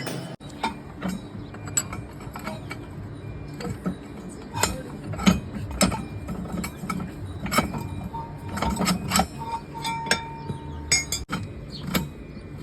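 Irregular metallic clanks and clinks of metal parts being handled and struck, over a steady low machine hum.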